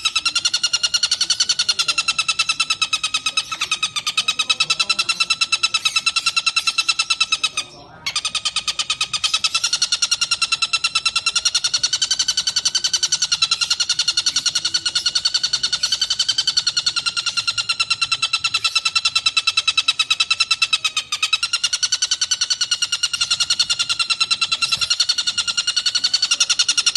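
Tengkek buto kingfisher calling in a continuous, very fast pulsed trill, nearly steady in pitch with slight wavering. It breaks off once, briefly, about eight seconds in.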